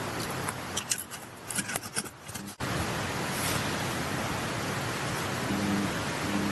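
Sharp crackles of a charcoal campfire over a steady rush of water. A little over two seconds in, the sound cuts abruptly to a louder, even rush of mountain-stream water.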